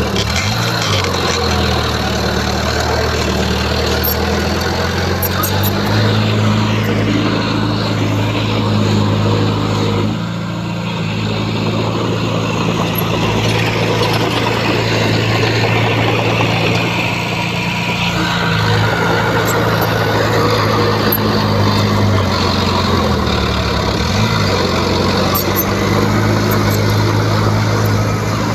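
Heavy diesel engine of earthmoving machinery running hard. Its note drops and climbs back a couple of times as the load or throttle changes.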